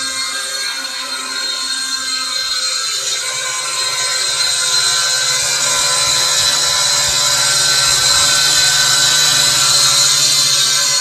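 WLtoys Q222 quadcopter's motors and propellers whining steadily, growing louder from about four seconds in.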